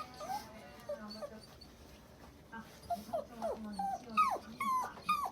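A dog whining: a run of short, high cries that mostly fall in pitch, coming faster and louder in the second half.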